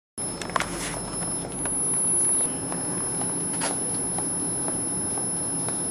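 Steady rumble of a passenger train carriage moving slowly through a station, with a few sharp clicks from the wheels over rail joints and points. The sound cuts in just after a short dropout, and a thin high whine runs underneath.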